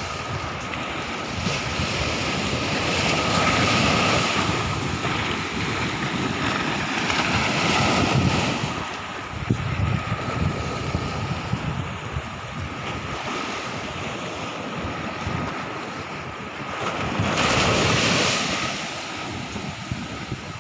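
Sea waves rushing and washing, the surge swelling and easing every few seconds with the strongest rushes about four, eight and eighteen seconds in, and wind buffeting the microphone. A faint steady high tone runs underneath.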